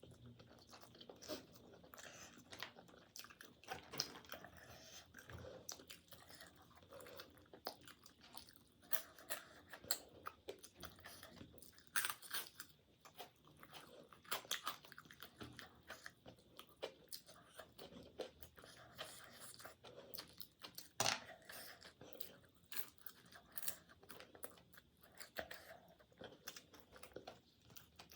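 A person chewing food close to the microphone, with irregular crunchy bites and wet mouth clicks.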